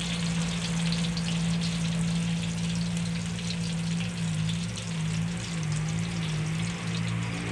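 Chopped garlic and onion sizzling in hot oil in a stainless steel wok, a steady fine crackle. Under it runs a steady low machine drone.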